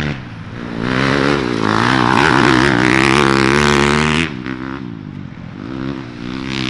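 Dirt bike engines revving hard, their pitch rising and falling with the throttle. The loud engine sound cuts off abruptly a little past four seconds, and a quieter bike engine then builds and revs up.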